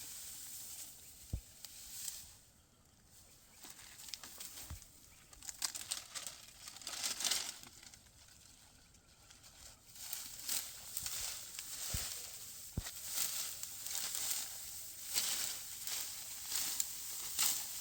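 Dry wheat stalks crackling and rustling in irregular bursts, sparse at first and getting denser and louder about halfway through.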